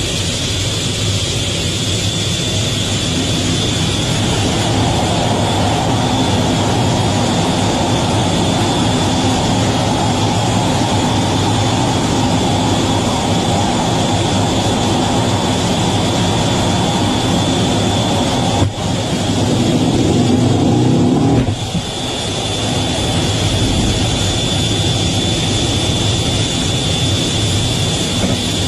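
Jet aircraft engines running on an aircraft carrier's flight deck: a loud, steady rush with a high, constant whine. About 19 seconds in it grows louder for a couple of seconds, then drops back suddenly.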